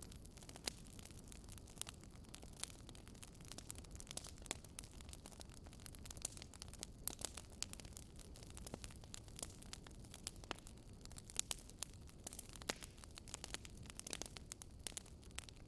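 Wood fire burning in a fireplace: a steady low rumble under constant irregular crackling and popping.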